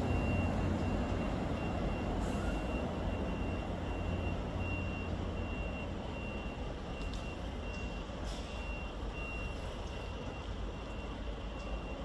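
Great Western Railway Class 800/802 train moving away down the line, its low rumble slowly fading. A high-pitched beep repeats steadily in the background.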